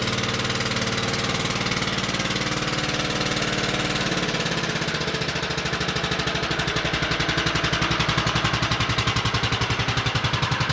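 Wheel Horse Suburban 551's single-cylinder Kohler K91 engine running just after a cold start. About halfway through it drops to a slower idle, with each firing pulse plainly heard.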